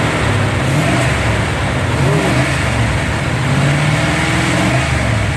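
1997 Dodge V8 Magnum engine running, revved lightly, with its pitch rising and falling a little.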